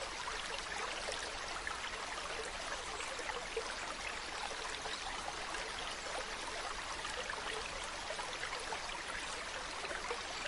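Mountain stream running over rocks: a steady, even rush of water, flecked throughout with small splashes and trickles.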